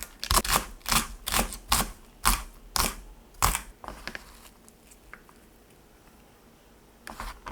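Sharp knocks of a utensil on a hard kitchen surface, about two to three a second, stopping about three and a half seconds in. A few lighter taps follow, then a quiet stretch, and two more knocks near the end.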